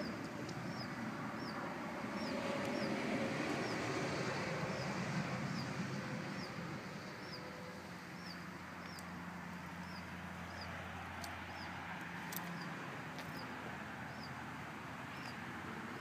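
A bird repeating a short, high, falling chirp at an even pace, a little more than once a second, over a low background rush that swells and fades in the first half.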